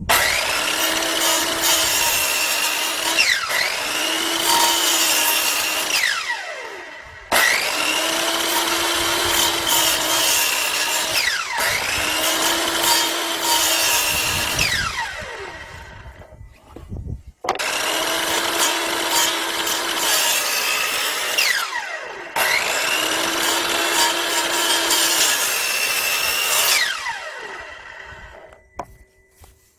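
Electric power tool running against wood, cutting or sanding it. The motor runs in three long spells of several seconds each, winding down with a falling whine between them, and its pitch dips briefly in the middle of each spell as it takes the load.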